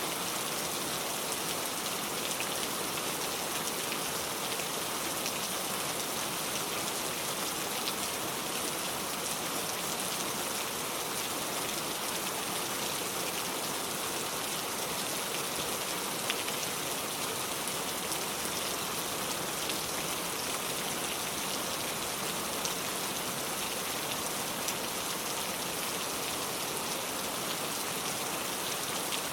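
Rain falling steadily on a car: an even, dense hiss of drops with scattered single drop ticks and no change in strength.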